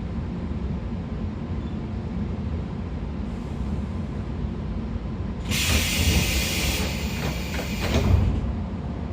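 Steady low running rumble of a 113 series electric train on the move, heard from inside the MoHa 113 motor car with its MT54 DC traction motors. About five seconds in, a loud hissing rush with rapid clacks breaks in for about three seconds, then drops back to the steady rumble.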